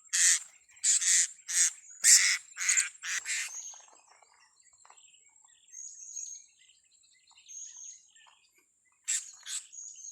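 Blue-crowned hanging parrots (serindit) calling: a fast run of short, shrill calls, about two a second, that stops about three and a half seconds in. Then a few faint calls, and two more loud ones near the end.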